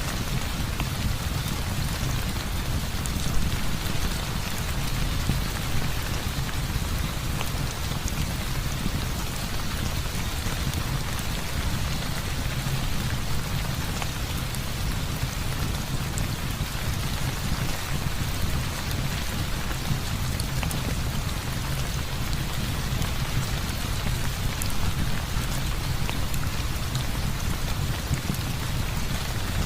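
Heavy rain falling steadily, with a deep low rumble under it and scattered small ticks of drops.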